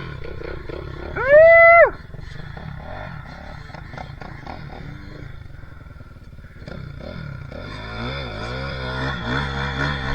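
Dirt bike engines on a motocross track: one loud, short rev that rises and falls about a second in, then from about seven seconds several engines revving up and down over a steady low drone.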